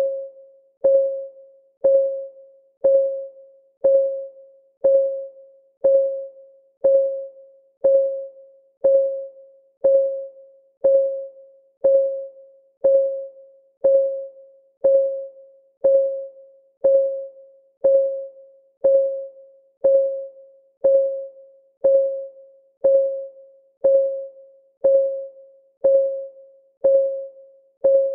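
Clock-ticking sound of a countdown timer: one short tick every second, each with a slight ringing pitch that fades quickly, perfectly even.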